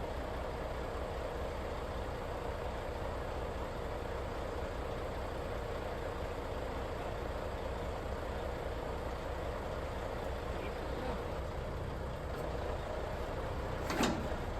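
Truck engine, apparently the crane truck's, running steadily at idle. One sharp knock comes near the end.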